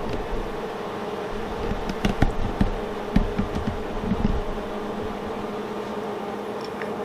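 Electric arc welder on a steel gate hinge: a steady electric buzz, with a few seconds of irregular crackling and pops in the middle.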